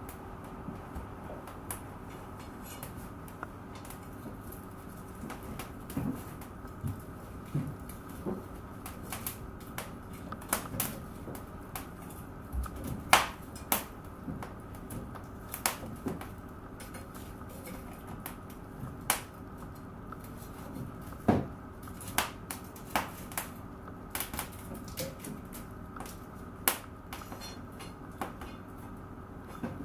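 Wood fire in a fireplace crackling, with irregular sharp pops and snaps, a few louder ones standing out, over a steady low background hum.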